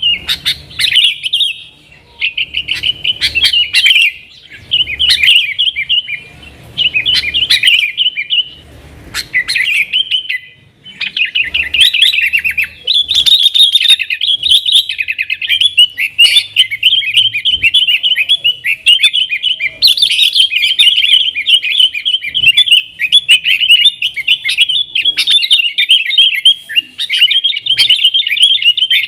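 Yellow-vented bulbul (trucukan) singing a fast, chattering song in the energetic 'nggaruda' style. It starts as short phrases of about a second with brief pauses, then runs on almost without a break from about twelve seconds in.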